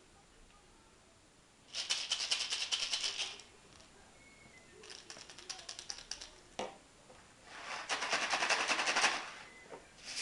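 Homemade maracas shaken in turn: three bursts of quick, rhythmic rattling, each lasting a second or two, with the shakers sounding different from one another. A single knock falls between the second and third bursts.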